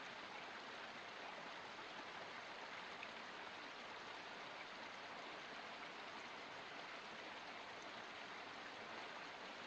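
Small forest stream running steadily, an even rush of flowing water.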